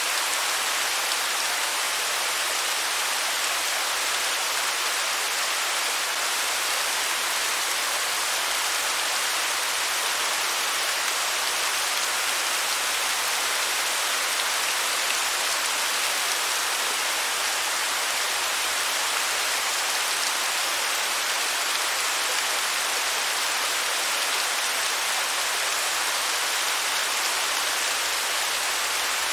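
Waterfall: a steady hiss of cascading water.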